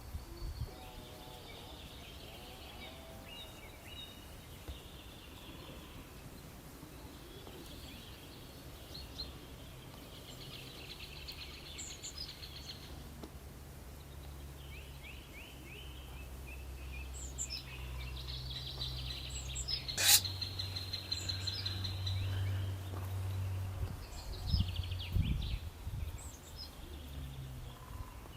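Small birds chirping and trilling in short phrases again and again, over a low steady hum that grows stronger from about the middle on. A single sharp click about two-thirds of the way through is the loudest moment.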